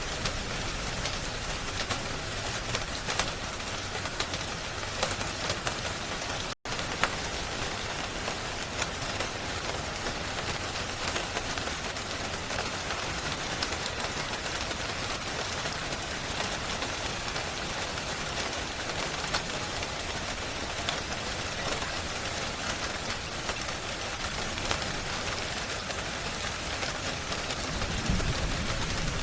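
Steady rain ambience mixed with scattered small crackles of a wood fire, the sound cutting out completely for an instant about six and a half seconds in.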